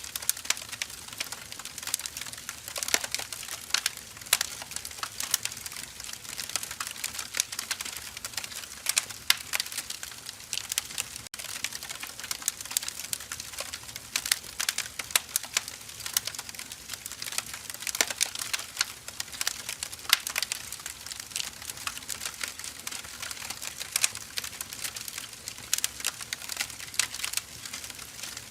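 Wood fire burning steadily: dense, irregular crackling and popping of burning logs over a soft hiss.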